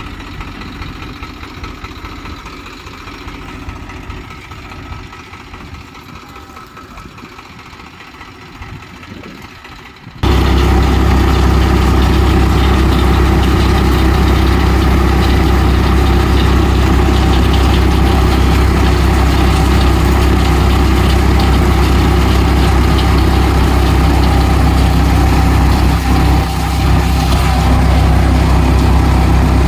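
Swaraj 735 tractor's three-cylinder diesel engine running a cutter thresher for mustard. It starts as a quieter, uneven rumble, then about ten seconds in turns suddenly much louder and steady, with the engine and thresher running together.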